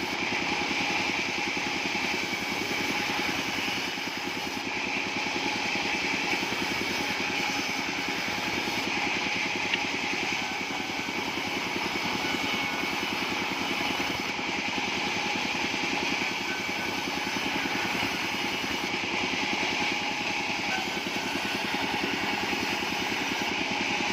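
Engine of a bandsaw sawmill running steadily.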